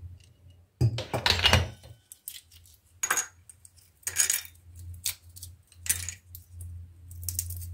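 Kitchen utensils clinking and scraping against dishes in about six short bursts, the first the loudest, over a faint steady low hum.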